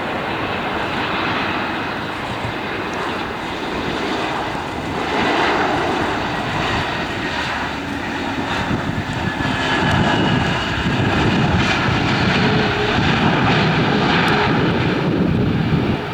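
Airliner's engines running, a loud rushing noise with faint steady whining tones, growing louder in the second half.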